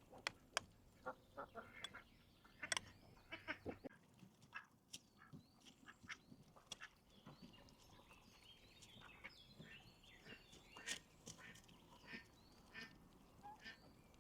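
Ducks quacking faintly in short, scattered calls.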